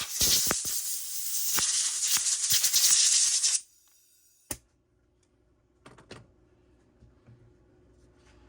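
Hissing spray cut by a few clicks, typical of aerosol cleaner or compressed air blown through a small two-stroke carburetor during cleaning. It cuts off suddenly about three and a half seconds in, followed by one sharp click and a few faint knocks.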